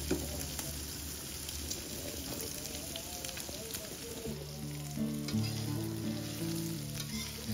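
Food cooking on the stove with a steady sizzling hiss and a few light clicks of a metal utensil against the pan. Background music with a slow, stepping bass line runs underneath and changes about four seconds in.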